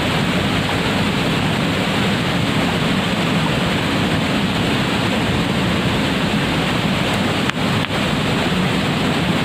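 Steady, loud rush of a waterfall's heavily flowing water, briefly cutting out twice near the end.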